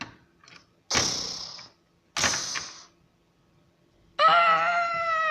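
Two sudden, hissing sound-effect hits about a second apart, each fading out quickly. Near the end a character's voice lets out a long, wavering cry lasting about a second.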